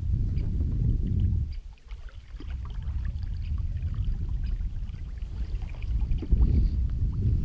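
Wind buffeting the microphone: an uneven low rumble that drops away briefly about two seconds in and then returns, with faint small clicks over it.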